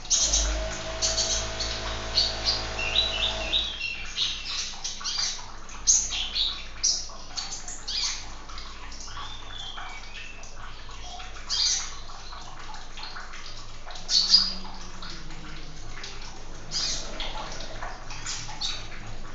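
Small birds chirping and calling repeatedly in short, sharp notes over a steady sound of running water. A low hum sounds under them for the first few seconds, then stops.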